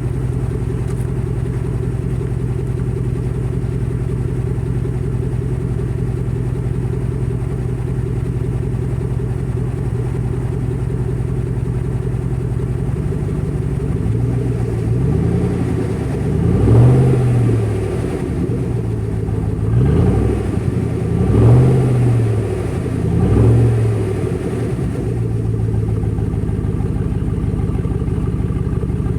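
2011 Chevrolet Tahoe's 5.3 V8 idling on a cold start through an open exhaust, muffler and resonator deleted with the factory cats still fitted. About halfway through it is given four light blips of the throttle, each rising and falling back, then it settles to a steady idle again.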